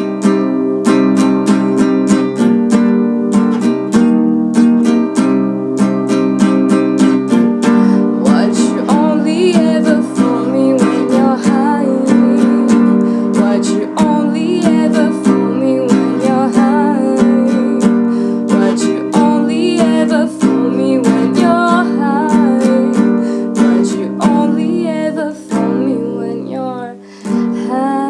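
Music: strummed acoustic guitar chords in a steady rhythm, with a wordless vocal melody coming in about eight seconds in; the music thins out and fades near the end.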